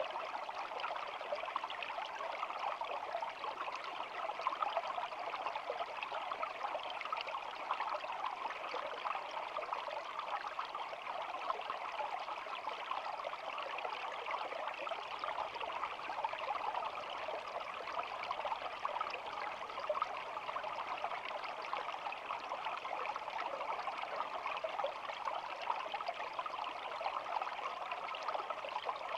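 Shallow stream babbling steadily, a constant even flow of trickling water.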